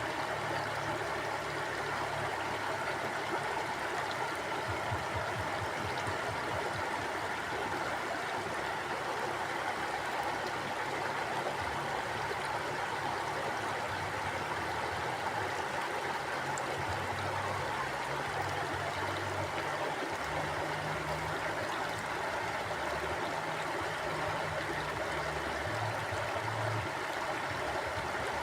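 Mountain stream flowing steadily: a constant rush of water with an uneven low rumble underneath.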